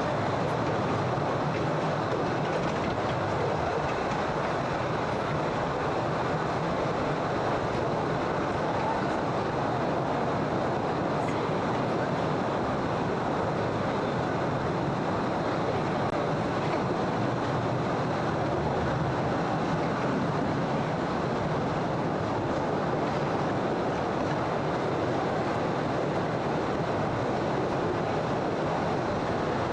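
Postojna Cave tourist train running steadily on its rails, a continuous even noise of wheels and carriages with no pauses.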